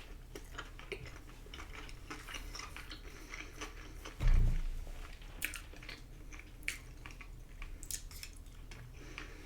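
Close-up chewing of food, with small wet mouth clicks and smacks. About four seconds in there is a short, low sound from the throat.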